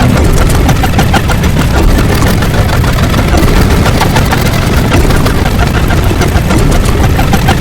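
Loud, continuous rumbling sound effect: a deep, steady rumble with dense crackling over it, much like a heavy engine running.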